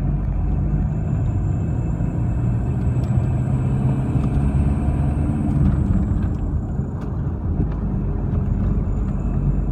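VW Passat B3 1.9 turbodiesel engine running, with a barely perceptible, unpleasant high whistle over its rumble that rises a little in pitch in the middle. The owner suspects the turbocharger or a burnt-through pipe.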